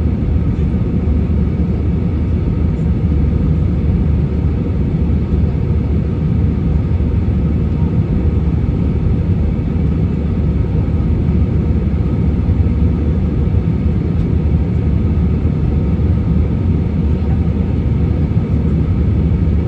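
Steady low roar of an airliner in flight, engine and airflow noise heard from inside the passenger cabin, unchanging throughout.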